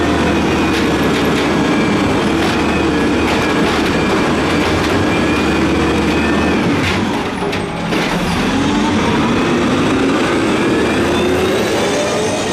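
Peterbilt 320 garbage truck's engine revving hard, held at high revs; the revs drop briefly about seven seconds in, then climb again.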